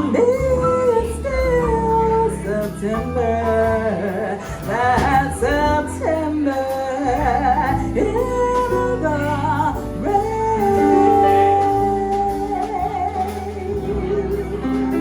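Small jazz band playing live with a female vocalist singing over it, with a long held note about two-thirds of the way through.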